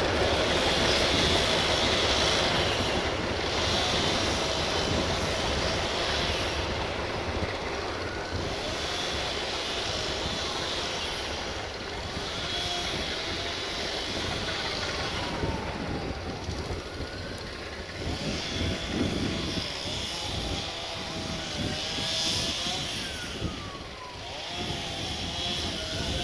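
A train running through the station: a steady engine drone with rolling noise that eases slightly. Wavering, gliding squeals join in from about halfway through.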